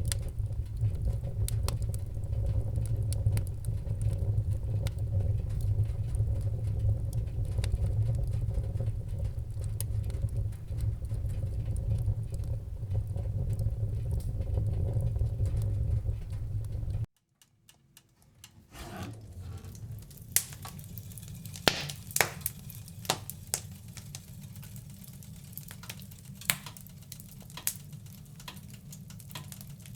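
Fireplace fire: a low steady rumble with light crackling, then the sound cuts off suddenly about seventeen seconds in. After a moment of near silence, quieter wood-fire crackling fades back in, with sharp pops.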